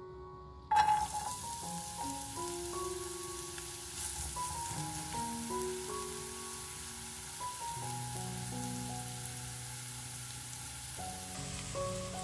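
Diced onion dropped into hot oil in a frying pan: a sudden loud sizzle about a second in, then steady frying.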